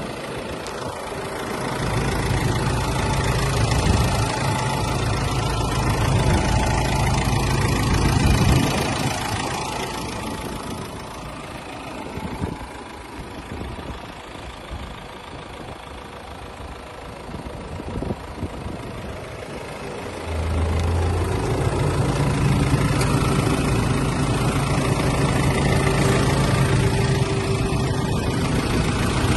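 Nissan Navara 2.3-litre four-cylinder diesel engine idling steadily. It gets quieter about a third of the way in and louder again about two-thirds in.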